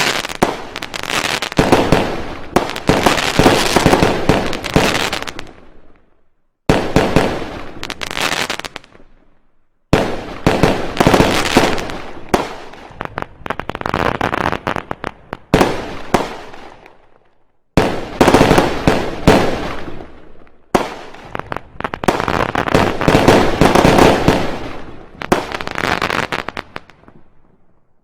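Fireworks and firecrackers going off in rapid volleys of sharp bangs and crackling, in several bursts that each start suddenly and fade out, with brief silences between some of them.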